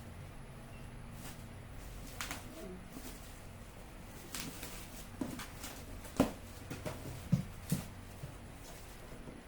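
Scattered light knocks and clicks from handling the vacuum cleaner's parts and packaging, about half a dozen over several seconds, the loudest about six seconds in, over a low steady hum.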